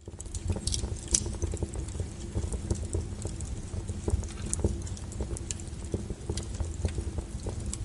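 Log fire crackling: frequent small sharp pops and snaps over a low steady rumble of burning wood, with the loudest pop about a second in.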